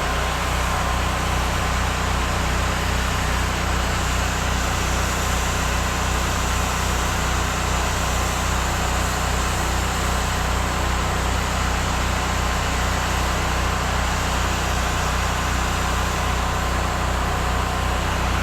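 Soft-wash rig's generator and pump engine running steadily, with the hiss of spray from the hose as the roof is wetted down.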